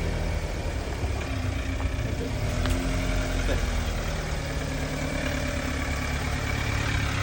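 A motor vehicle engine idling steadily, with one short click a little under three seconds in.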